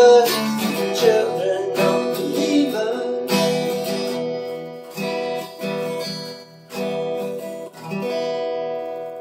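Acoustic guitar strumming the closing chords of a song, a few separate strums, with the last chord ringing and fading out.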